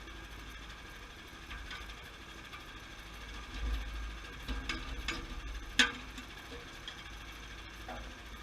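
Sawmill engine running steadily, with a few sharp metallic knocks and clanks about halfway through, the loudest one just before six seconds in.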